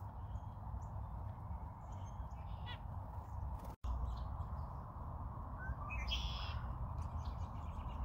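Wild bird calls outdoors in winter: a few faint high calls about two and a half seconds in, and a louder call about six seconds in, over a steady background hiss and low rumble.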